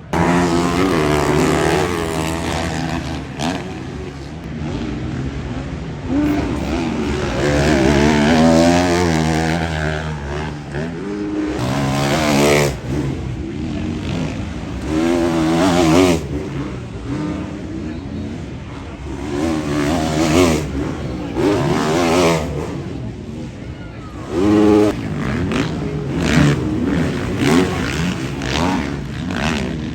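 Motocross bikes racing, their engines revving hard with the pitch climbing and dropping again and again as they accelerate and shift. Several bikes overlap in loud swells.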